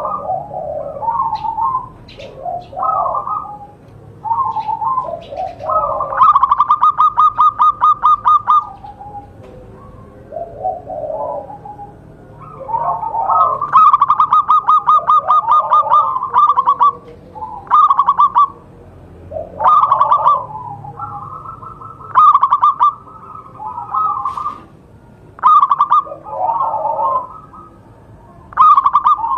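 Zebra dove (perkutut) cooing loudly and repeatedly. Short coo phrases alternate with longer runs of fast staccato notes lasting two to three seconds each, with brief pauses between.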